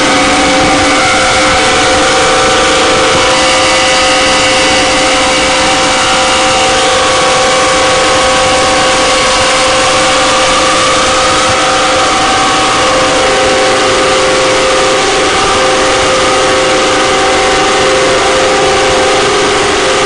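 Harsh noise drone music: a loud, dense wall of static with several steady droning tones layered over it, their pitches slowly shifting; about thirteen seconds in, one tone drops lower.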